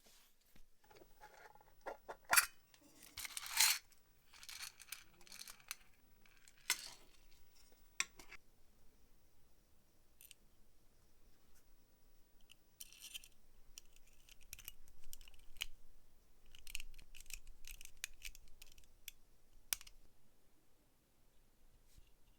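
Irregular clicks and short scrapes of small metal parts being handled, busiest a few seconds in and again past the middle.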